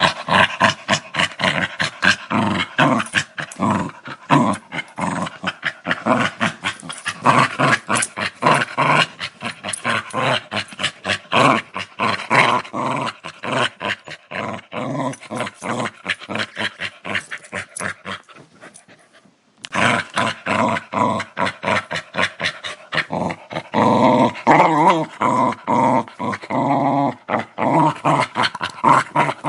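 Dog growling in a fast, pulsing series. It breaks off for about a second and a half two-thirds of the way through, then starts again with a steadier, more tonal growl.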